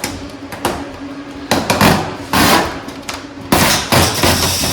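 Hammering on metal: a couple of single blows, then several loud stretches of rapid banging, each about half a second long.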